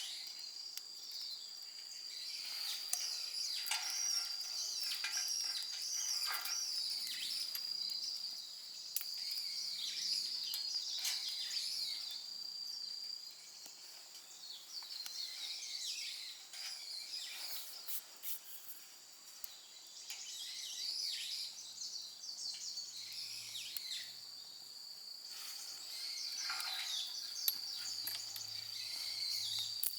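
Forest ambience: birds chirping and calling over a steady high insect trill, which drops out for several seconds midway and then returns.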